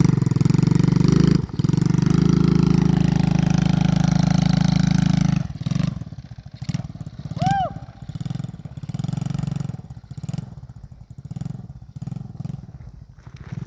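110cc pit bike's single-cylinder four-stroke engine running loud and steady, with a brief dip about a second and a half in. After about five seconds it drops to a quieter, uneven sound that rises and falls, with a short high-pitched call partway through.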